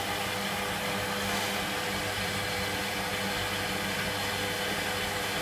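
Electra AWF683 front-loading washing machine running: a steady whirring noise with a low, even hum.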